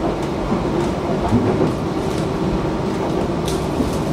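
Running noise of a moving passenger train heard inside the Argo Parahyangan panoramic coach: a steady rumble from the wheels on the rails with a constant hum, and a couple of light clicks near the end.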